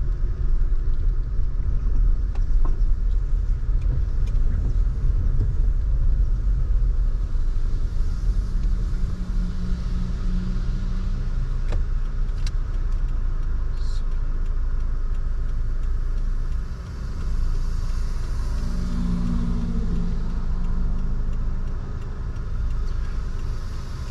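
Car driving, with a steady low rumble of engine and tyres heard from inside the cabin.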